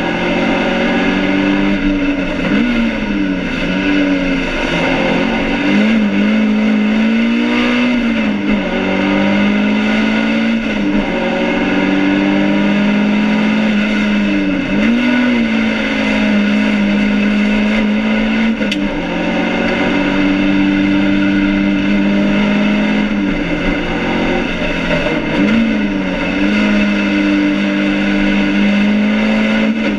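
BMW 2002 race car's four-cylinder engine running hard, heard from inside the stripped cabin. Its note holds steady for stretches, then drops sharply and climbs back again about five times as the driver lifts and changes gear.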